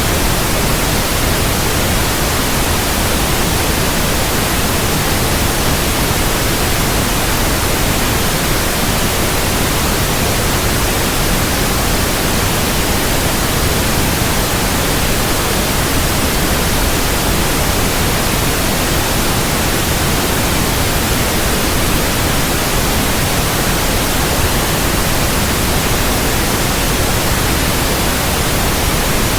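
Steady synthetic white noise, an even hiss across the whole range of pitch with no change or break.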